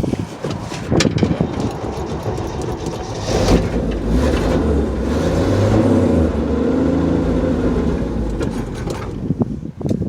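Cold start of a 1964 Chevrolet's 250 straight-six with a Rochester single-barrel carburetor, on the choke and without starting fluid. The starter cranks, the engine catches about three and a half seconds in and runs unevenly while being revved, then dips briefly near the end.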